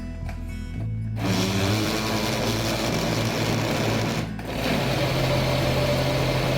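Countertop blender motor running, blending the mandarin cake batter. It starts up about a second in, stops briefly just past four seconds, and starts again.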